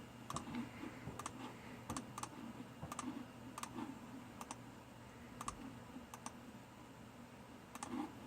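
Faint, irregular clicks of computer keys and mouse buttons being typed and clicked, a few each second, over a low steady hum.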